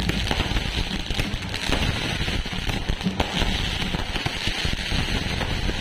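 Fireworks going off in a dense, continuous crackle, with a few sharper bangs standing out about one, one and a half and three seconds in.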